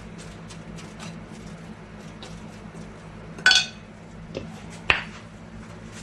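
A utensil stirring a dry spice and almond-meal mix in a bowl, with light ticks as it scrapes round, and two sharper clinks against the bowl about three and a half and five seconds in.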